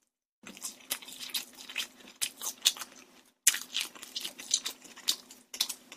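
Close-miked chewing of crispy glazed Korean fried chicken (dakgangjeong): irregular wet crunches and smacks as the mouthful is bitten and chewed.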